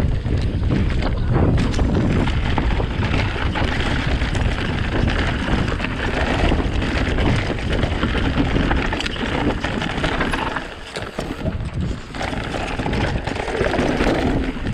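E-bike riding over a rough forest trail: the steady rumble of wind on the microphone and tyres, with many small rattles and knocks from the bike, easing briefly about eleven seconds in.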